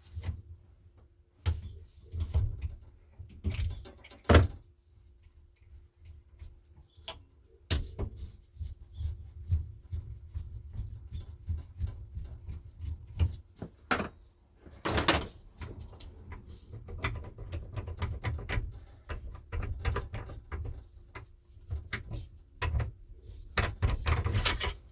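Irregular metal knocks, clicks and short scraping strokes from parts of an old hand-cranked drill press being worked on with hand tools, with a few louder knocks scattered through.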